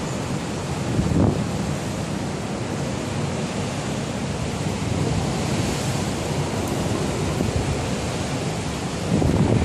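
Typhoon-force wind blowing hard and buffeting the smartphone microphone in a steady rush, with stronger gusts about a second in and near the end.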